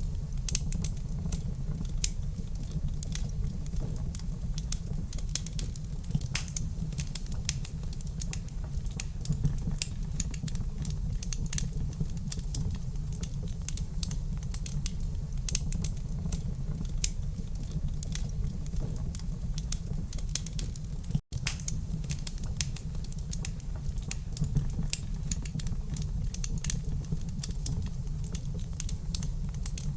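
Wood fire crackling in a fireplace: many quick, irregular sharp pops and snaps over a steady low rumble of the burning fire. The sound cuts out for a split second about two-thirds of the way through.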